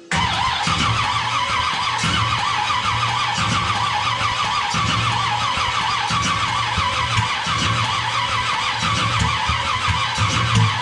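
Chevy small-block V8 cranking over on its starter in a first-start attempt, starting abruptly and holding a fast, even pulsing. It does not catch, and sounds like it is blowing out.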